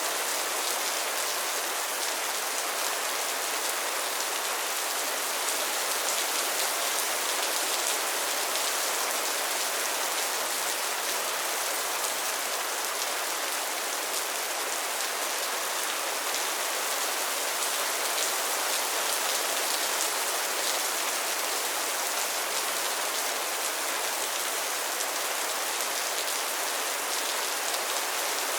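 Steady rain falling on pond water and lily pads: a dense, even hiss, mostly in the higher register, with fine drop patter.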